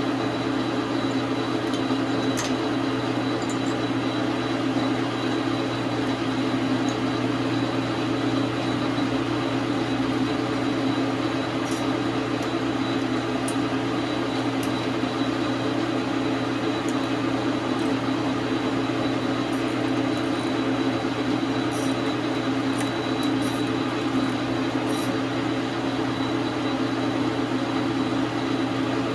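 Dar Sin 12 x 37 manual metal lathe running steadily, with a few faint ticks.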